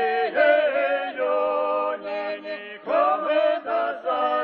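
Background music: male voices singing a slow, chant-like melody in long held notes that glide between pitches.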